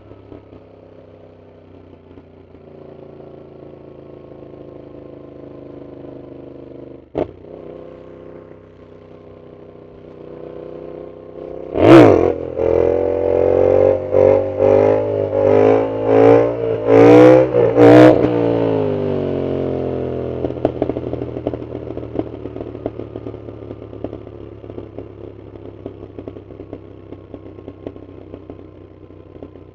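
Yamaha MT-07's CP2 parallel-twin engine through a loud aftermarket full exhaust, cruising steadily before a hard acceleration about twelve seconds in, with a string of sharp cracks over the next six seconds. The revs then fall away on the overrun with a rapid crackle from the exhaust.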